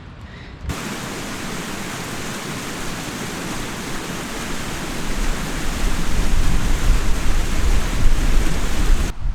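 Rushing stream water, a loud, even hiss that cuts in suddenly about a second in and cuts off just before the end. A low rumble grows under it in the second half.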